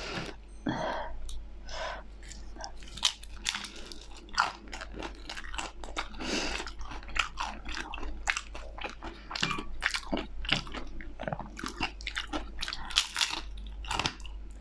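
Close-up biting and chewing of a crispy fried spring roll: dense, irregular crunches as the crisp wrapper breaks, picked up close on a clip-on microphone.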